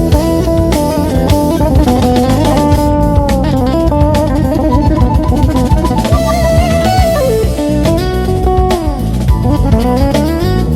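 Funk-style instrumental band music: a lead guitar plays held notes that slide up and down in pitch over drum kit and bass.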